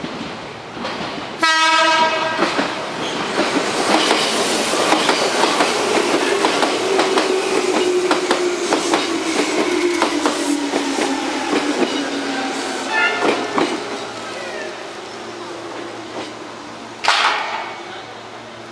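A train sounds a short horn blast, then runs past with its wheels clicking over the rail joints and a whine that falls slowly in pitch. A brief sharp blast comes near the end.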